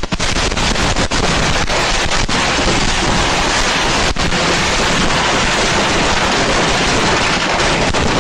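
A loud, rapid barrage of fireworks going off, dense crackling mixed with many sharp bangs.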